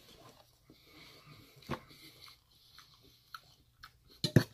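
Close-up chewing and mouth sounds of a man eating tofu curry, with a click about a second and a half in. Near the end a metal fork knocks sharply two or three times against a metal bowl.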